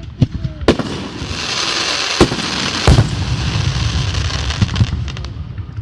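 Fireworks going off: three sharp bangs, about a second in and twice more between two and three seconds in, over a steady crackling hiss that lasts about four seconds and fades near the end.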